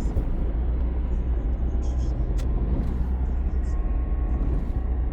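Steady low rumble of a vehicle in motion, with a few faint ticks.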